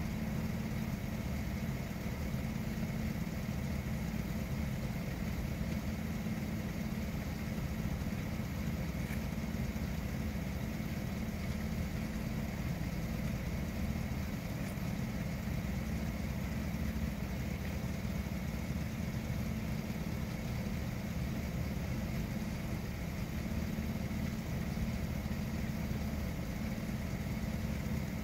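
A vehicle engine idling steadily: an even low hum that does not change.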